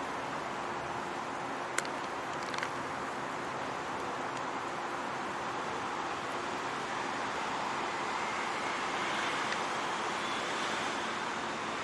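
Steady rushing of wind over the microphone mixed with street traffic noise while cycling, with two short clicks about two seconds in.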